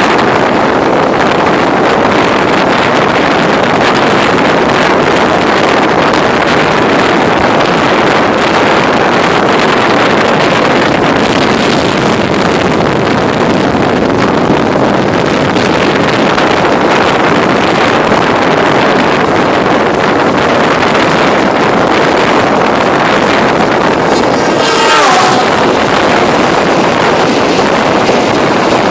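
Steady rush of wind on the microphone and the running noise of a passenger train at speed, heard from an open door. A short falling whine comes about 25 seconds in, and near the end a container freight train runs past close by on the next track.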